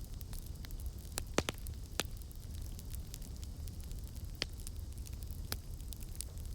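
Campfire burning: a steady low rumble of flames under constant fine crackling, with several sharp wood pops, a cluster of them between one and two seconds in and two more later.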